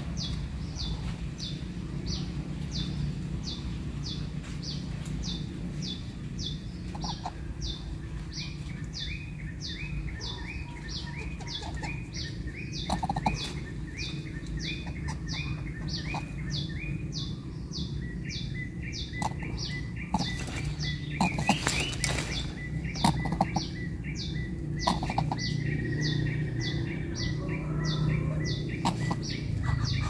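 High, short falling chirps repeating steadily about twice a second, with a second, lower series of chirps joining for several seconds in the first half. Around two thirds of the way in there is a cluster of sharp clicks and rustles of dry nest material as the greater coucal shifts over its chicks.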